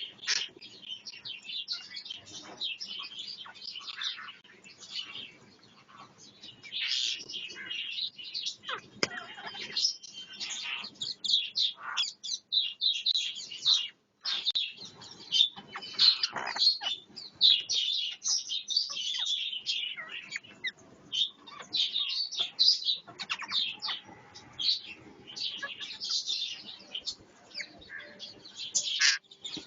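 Parrots squabbling, a rapid run of overlapping shrill chirps and squawks, with a brief break about halfway through.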